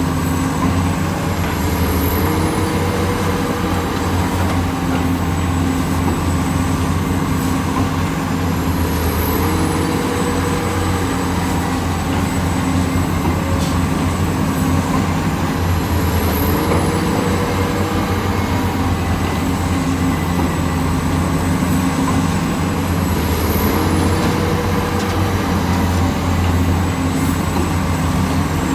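Heavy diesel engines of earthmoving machinery (an excavator and dump trucks) running steadily, with a brief higher tone recurring about every seven seconds.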